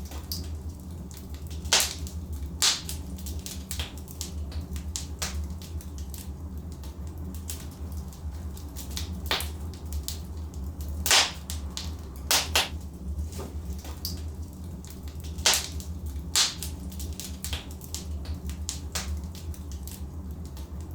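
Wood fire burning in a fireplace: logs crackling, with sharp irregular pops and snaps over a steady low rumble. The loudest pop comes about halfway through.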